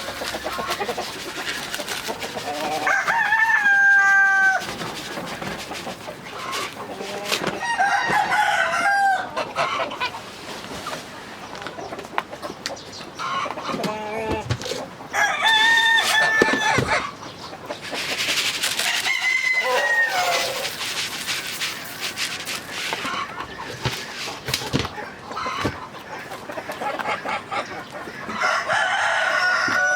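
Chickens: a rooster crows about five times, each a long call of a second or two, while hens cluck and chatter between the crows.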